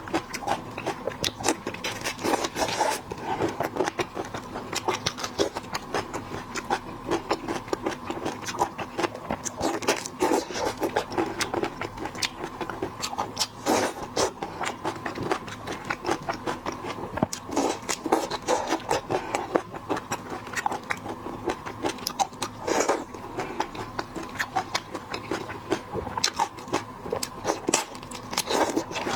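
Close-miked eating of shrimp: a dense, irregular run of crackles and clicks from shells and chewing.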